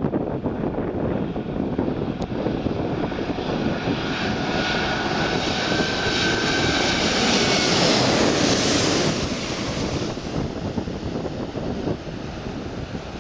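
Airbus A380's four Rolls-Royce Trent 900 jet engines on landing approach passing the listener: a rushing jet roar with a thin steady whine, swelling to its loudest about eight seconds in and then easing away.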